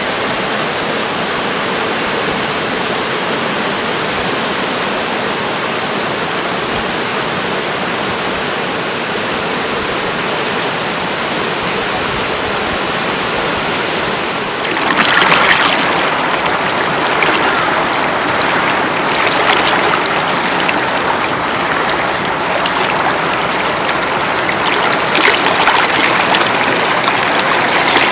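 River water flowing in a steady hiss. About halfway through it suddenly gets louder and brighter and stays that way.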